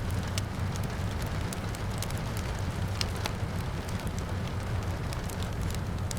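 Wood fire crackling with irregular sharp pops and snaps over a steady low rumble, with rain falling outside.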